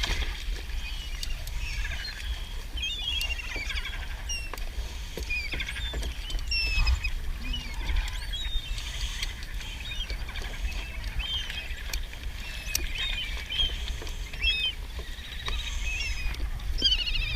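Birds giving short, high, squeaky calls again and again, over a steady low rumble of wind on the microphone.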